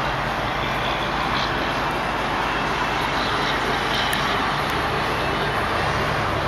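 Steady background road-traffic noise, an even rushing hum with no distinct events.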